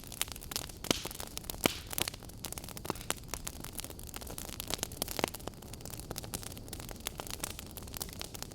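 Burning wood logs crackling: many small irregular snaps over a steady low rumble of the fire, with a few louder pops.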